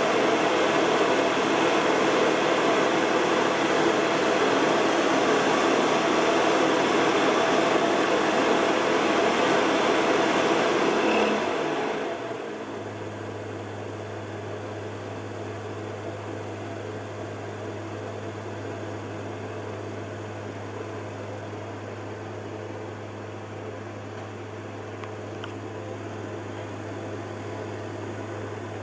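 The repaired 12-volt fan of a Carver Fanmaster caravan heater runs with a steady whir and rush of air. About twelve seconds in it winds down and stops, leaving a steady low electrical hum.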